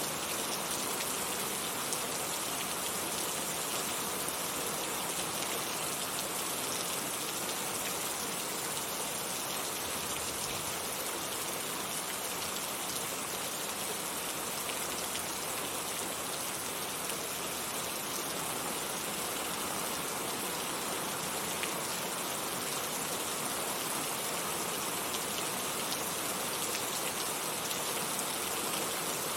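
Heavy rain falling steadily, an even hiss of many drops on surfaces with no breaks or thunder.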